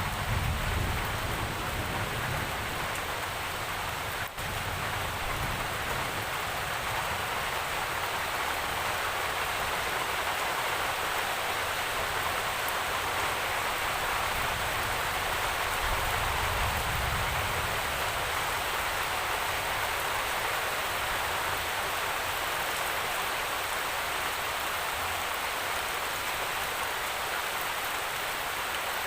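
Steady, heavy rainfall, an even hiss of falling rain, with a low rumble near the start and again about sixteen seconds in.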